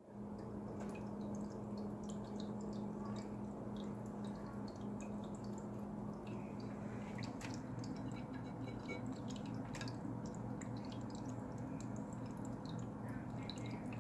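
Pioneer Pet Raindrop pet drinking fountain running: its pump hums steadily while water trickles and drips into the bowl with irregular small splashes.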